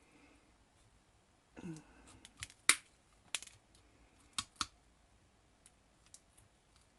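Scissors snipping at a beaded trim: about half a dozen sharp, separate clicks spread over a few seconds, with a faint brief hum among the first of them.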